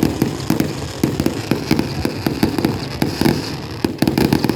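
Fireworks display: a rapid barrage of aerial shell bursts, several sharp bangs a second overlapping with deeper booms.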